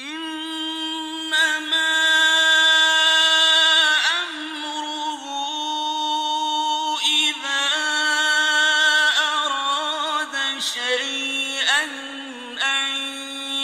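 A man's voice reciting the Quran in melodic tajweed style, holding long drawn-out notes with ornamented turns in pitch between them. The recitation starts abruptly after a silent pause.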